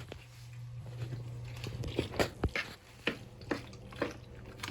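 Macaroni and cheese being stirred in a pan with a utensil: soft wet squishing with a handful of irregular knocks and clicks of the utensil against the pan, over a steady low hum.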